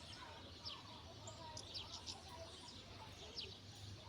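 Small birds chirping faintly: several short, quick downward-sliding chirps and some lower warbling calls, over a steady low hum.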